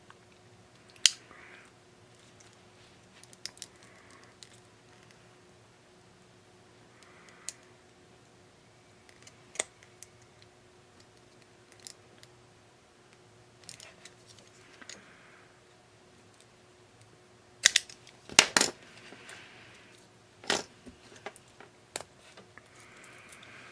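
Scattered clicks, taps and light scraping from hands and small tools working on a small radio cassette player's casing and insides, with a few sharper knocks at about 18 to 21 seconds. A faint steady hum runs underneath.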